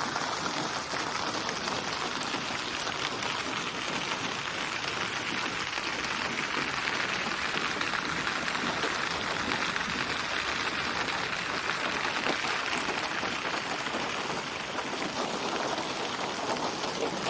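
Steady rain falling: an even hiss with fine pattering of drops.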